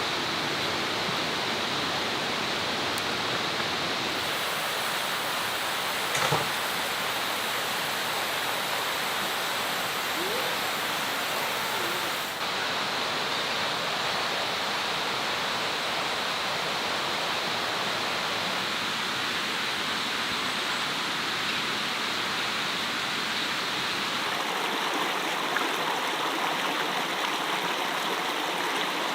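Steady rushing noise of running water, like a stream, with a faint knock about six seconds in and a slight change in tone twice along the way.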